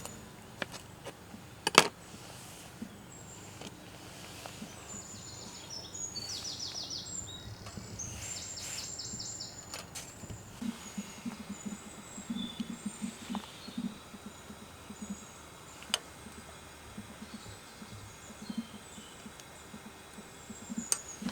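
Small birds chirping and trilling, with a few sharp clicks, the loudest about two seconds in. Soft low pulses set in about halfway through.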